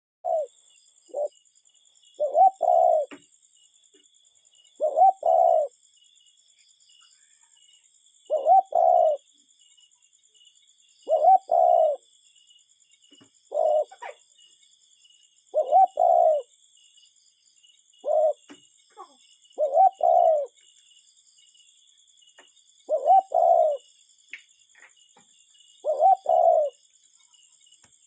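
A cuckoo calling its two-note "cuck-oo" about every two and a half to three seconds, a few calls clipped to a single note, over a faint steady high-pitched insect trill.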